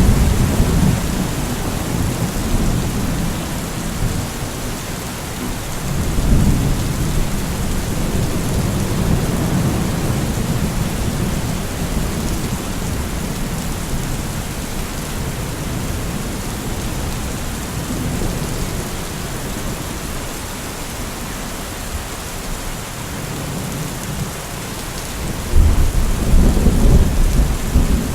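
Steady rain falling, with rolling thunder rumbling low beneath it; the thunder swells about six seconds in and again louder near the end.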